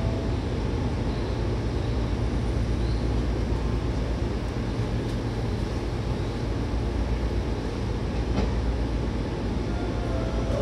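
Seibu 2000 series electric train running at a steady pace, a constant low rumble of wheels on rail, with one sharp click about eight seconds in.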